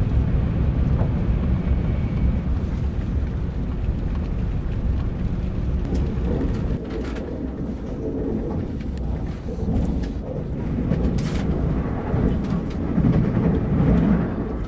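Cabin noise of a KTX high-speed train running at speed: a steady deep rumble from the running gear and track, with a few faint ticks. It swells louder near the end.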